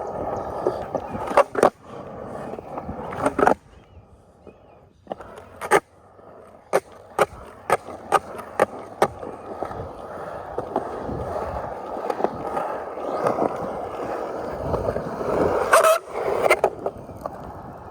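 Skateboard rolling on a concrete park surface on hard urethane Spitfire Formula Four 101a wheels. Sharp wooden clacks of the tail popping and the board landing come through it, a quick run of them in the middle and a loud pair near the end. The rolling drops away briefly a few seconds in.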